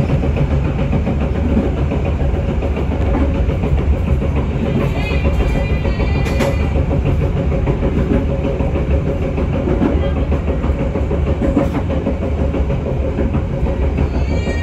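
Passenger train running along the track: a steady, loud rumble of wheels on rails, with music playing over it.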